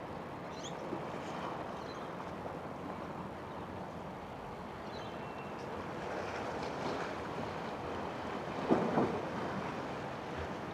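Boat traffic on a harbour: a steady wash of engine and water noise with wind on the microphone. A few faint high chirps come through, and there is a brief louder burst about nine seconds in.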